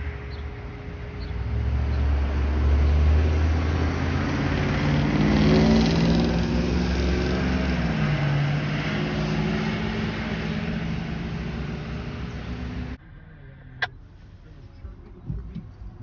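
Fire truck driving past with its engine loud, the pitch dropping as it goes by. The sound cuts off suddenly about 13 seconds in, leaving quieter background noise and a single sharp click.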